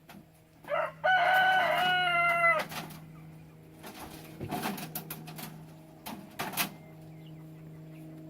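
A rooster crows once, a single held call of nearly two seconds starting about a second in. A few sharp knocks follow later.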